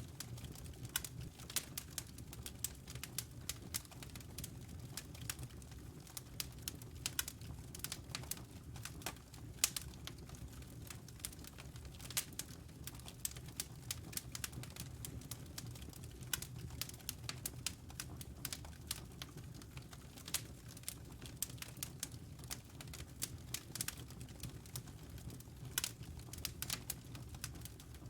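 Wood fire crackling in a fireplace: irregular sharp snaps and pops, several a second, over a low steady rumble of the burning logs.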